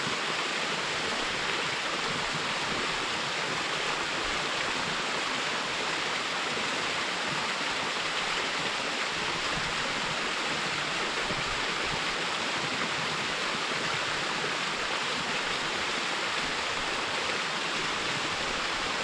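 Small mountain waterfall splashing steadily into a stream, a continuous rush of falling water with no change.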